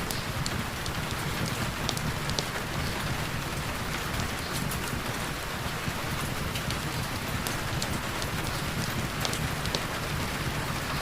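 Heavy rain falling steadily, a dense even hiss with many individual drops ticking sharply on a surface close by.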